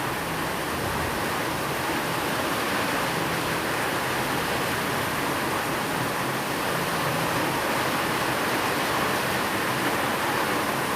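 Steady rain falling as a continuous, even hiss, with no single drops or thunder standing out.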